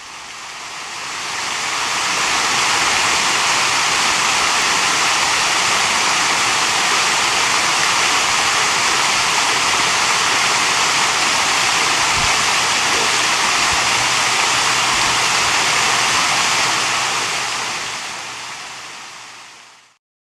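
Waterfall water rushing and splashing in a steady, even hiss, fading in over the first couple of seconds and fading out over the last few.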